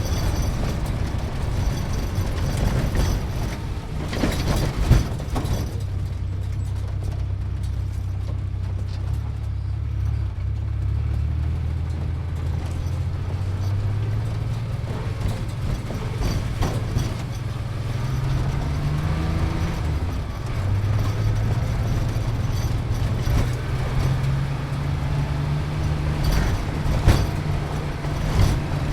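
Sports car engine heard from inside the cabin while driving, a low steady drone whose pitch climbs slowly a few times as it speeds up. A couple of short knocks, about five seconds in and near the end.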